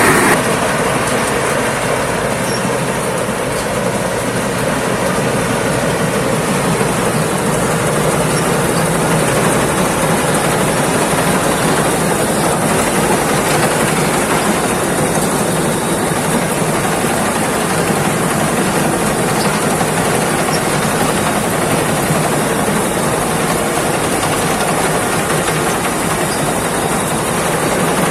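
Thai Seng 'Jao Payu Thornong' rice combine harvester running steadily, its engine and machinery making a loud, continuous, even noise.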